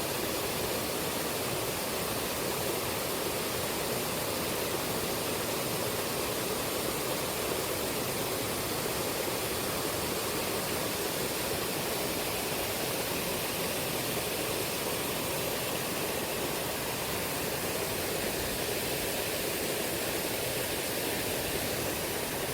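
Shallow, fast-flowing river current rushing steadily and evenly.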